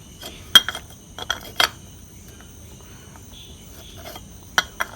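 Light metallic clinks and taps from clutch parts of a Yamaha RX135 engine being fitted and seated by hand: several sharp clicks in the first two seconds and two more near the end.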